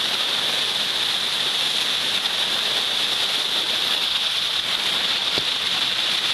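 Flash-flood water pouring down a slot canyon into an already filled pothole: a steady rush of running water.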